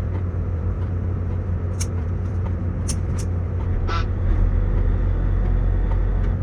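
Tugboat diesel engine running steadily as a deep, low drone, with a few short sharp clicks over it.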